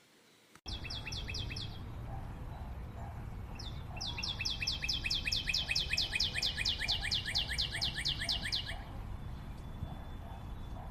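A bird singing a fast trill of repeated high, descending notes, about six a second: a short run, then a longer run of about five seconds, over steady low background noise.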